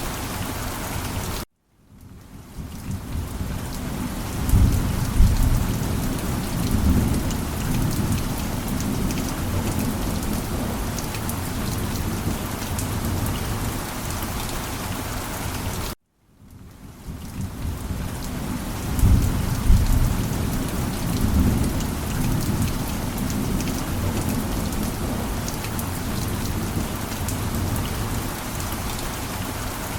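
Steady heavy rain with two low rolls of thunder, one about four seconds in and one near the middle. The sound cuts out abruptly twice, about a second and a half in and at about the midpoint, then fades back up, as the same stretch of storm repeats.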